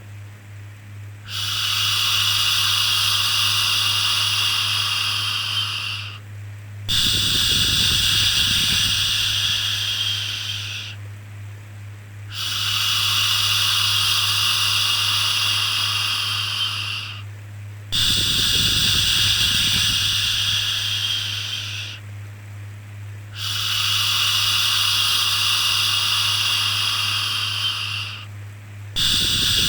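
Long 'shhh' shushing for soothing a baby, repeated about five times, each shush lasting four to five seconds with a short pause between. A steady low hum runs underneath.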